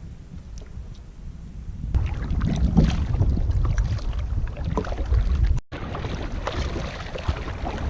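Wind rumbling on the microphone and water sloshing and knocking around a kayak, with scattered small clicks. It swells about two seconds in and breaks off for an instant a little past halfway.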